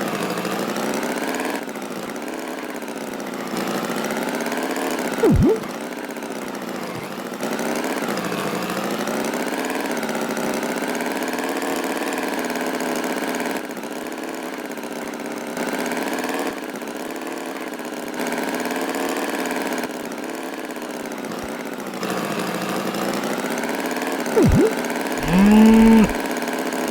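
Cartoon tractor engine sound effect running steadily with a wavering pitch, its loudness stepping up and down every couple of seconds. A couple of short sharp blips fall in pitch along the way, and a louder pitched note bends downward near the end.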